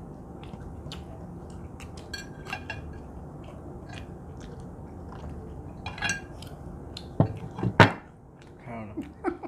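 Cutlery clinking and scraping against plates while eating. There are ringing metal clinks about two and six seconds in, and two louder knocks shortly before the end.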